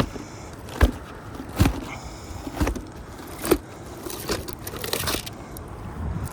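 Roofing material and tools being handled on a shingle roof: a series of about seven sharp knocks and crinkling rustles, less than a second apart.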